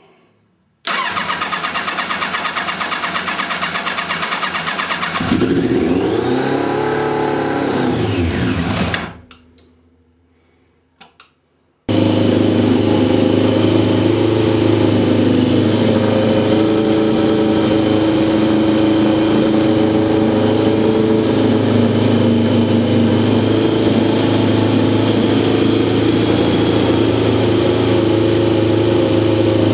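Kawasaki ZZR1100's inline-four being started after long storage: the starter cranks for about four seconds, the engine catches, revs up and falls away until it stalls. After a short pause and a couple of clicks it fires again about twelve seconds in and keeps running steadily.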